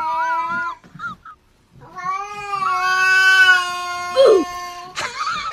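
A cat yowling in long, drawn-out calls: one call ends under a second in, and after a short pause a second steady call is held for about three seconds. A brief noisy sound follows near the end.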